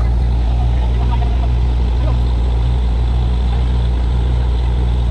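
Borewell drilling rig's engine running steadily under load: a loud, unbroken deep drone.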